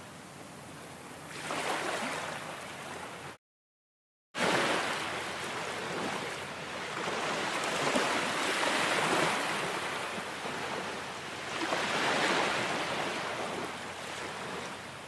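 Ocean waves washing in, a steady rush that swells and eases every few seconds. About three seconds in the sound cuts out completely for roughly a second, then comes back.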